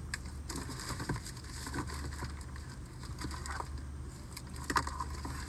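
Rummaging through a storage compartment inside a car: rustling and small clicks and knocks, with a short cluster of louder clicks near the end, over the steady low hum of the idling car.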